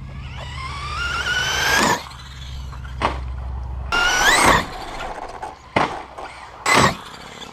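Electric motor of an RC short-course truck whining as it accelerates, its pitch climbing steadily for about two seconds and again in a shorter, sharper rise around four seconds in. Short rushes of noise break in three times in the second half.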